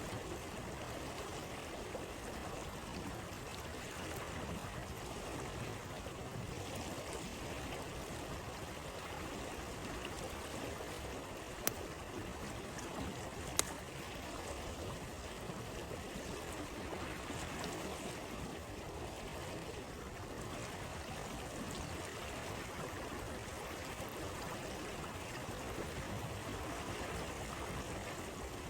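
A stream flowing steadily over rocks, with two sharp pops from a crackling campfire a couple of seconds apart near the middle.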